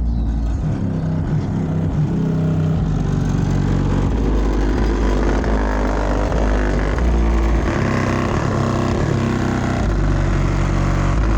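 Car-audio subwoofers on a 900-watt amplifier playing music loud, deep bass notes that change every second or two.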